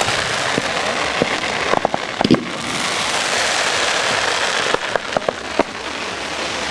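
Fireworks crackling in a dense hiss, with scattered sharp pops and bangs, a cluster about two seconds in and another about five seconds in.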